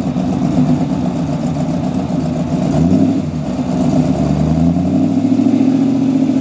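Car engine running, its pitch climbing about three seconds in and again, more gradually, over the last couple of seconds as it is revved or accelerates.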